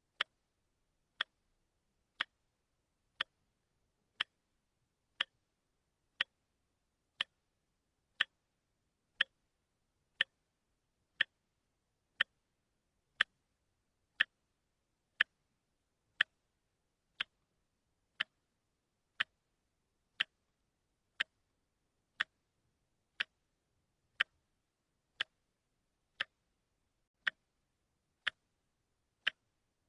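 A watch ticking, one sharp tick a second at a steady pace.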